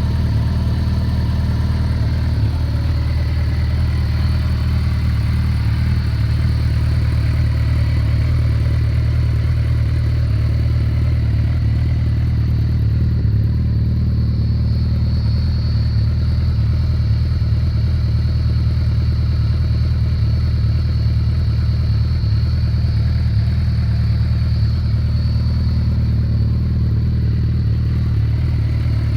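2011 Suzuki Hayabusa's 1340 cc inline-four idling steadily through aftermarket Yoshimura R77 carbon slip-on mufflers, a deep, even exhaust note with no revving.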